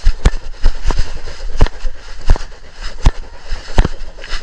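Footsteps of a person walking, a sharp step roughly every two-thirds of a second, over a low rumble.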